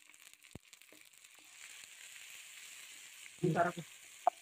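Chopped tomatoes and sliced onions frying in hot oil in a wok: a faint, steady sizzle that grows a little stronger after the first second and a half, with a few light clicks of the spatula. Late on there is a brief voice-like sound, then a sharp click.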